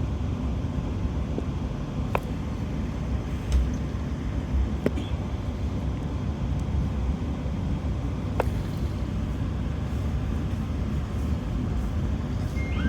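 Steady low rumble of a moving passenger train coach heard from inside, wheels running on the track, with a few sharp clicks about two, five and eight and a half seconds in.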